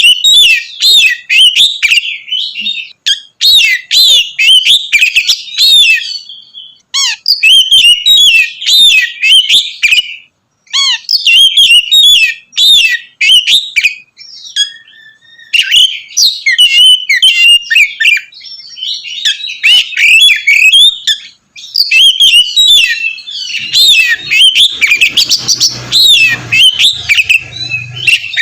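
Oriental magpie-robin (kacer) singing a loud, full song: rapid runs of varied whistles and chirps in phrases a few seconds long, with short breaks between them.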